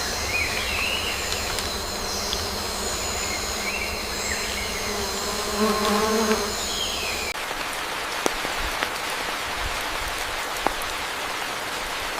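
Tropical forest ambience: a steady high-pitched insect chorus with a few gliding chirps, and a lower call about six seconds in. About seven seconds in it cuts abruptly to an even hiss of falling water with scattered sharp drips.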